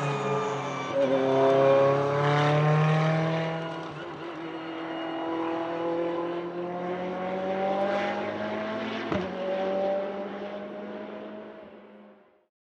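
Ferrari P80/C's twin-turbo V8 racing engine running hard on track, its pitch climbing through the revs with a drop about four seconds in before rising again. There is one sharp crack about nine seconds in, and then the engine sound fades out.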